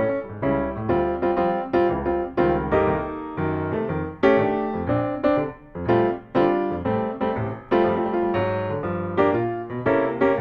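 Piano music: a steady flow of struck notes, each ringing and fading.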